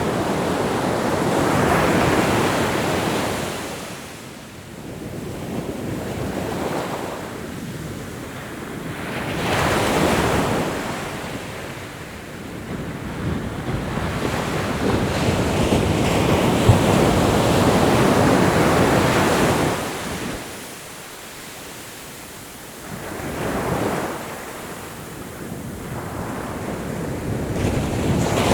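Ocean waves breaking and washing on a shore, in slow surges that swell and fade every few seconds, with a long sustained wash in the middle and a fresh surge building near the end.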